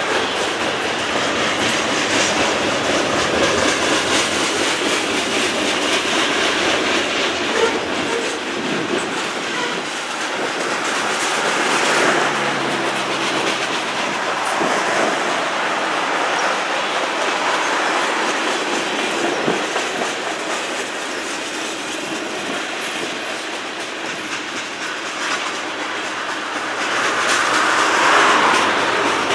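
Freight cars of a long mixed freight train rolling across a viaduct: steel wheels clattering in a steady clickety-clack over the rail joints with a continuous rumble, growing louder near the end.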